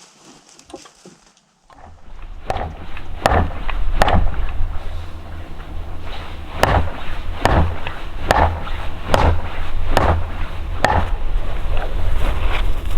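Wood being chopped with an axe, a run of sharp strikes about one a second, the first two after a short pause and then six in a steady rhythm. Wind rumbles on the microphone under the strikes.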